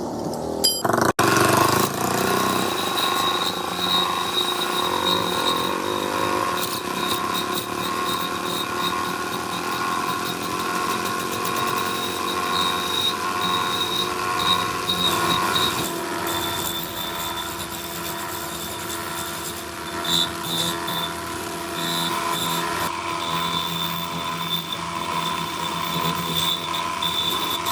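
A motor-driven tool running steadily with a high whine, with a brief dropout about a second in.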